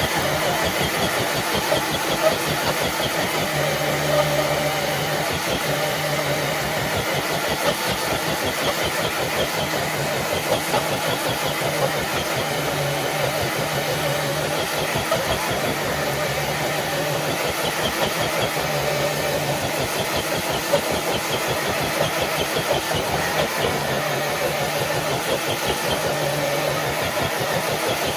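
Electric RC scale truck's motor and gearbox running under load as it drags a dead-weight sled loaded with ten bricks, a steady mechanical whir with a fast rattle throughout.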